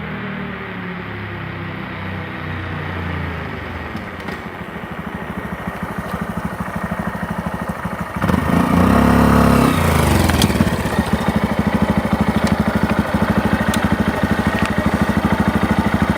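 Honda Monkey 125's air-cooled single-cylinder four-stroke engine on its stock exhaust, running with its pitch easing down, then revved sharply about eight seconds in and settling back to a steady, pulsing idle.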